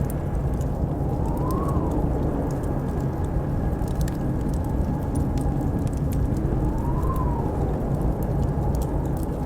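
Blizzard wind with a steady low roar and a whistling howl that rises and falls twice, over the scattered crackles and pops of a wood fire.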